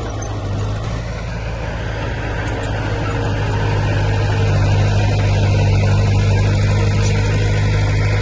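Heavy diesel engine of earthmoving equipment running steadily with a deep hum, growing louder about three seconds in.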